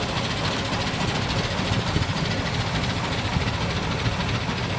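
Boat engine running steadily, a constant low mechanical drone with a knocking texture.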